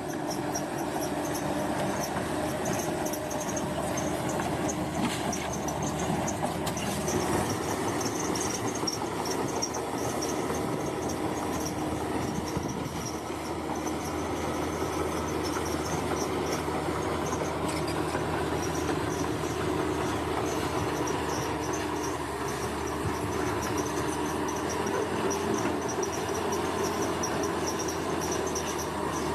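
Bulldozer's diesel engine running steadily, with insects chirping high over it.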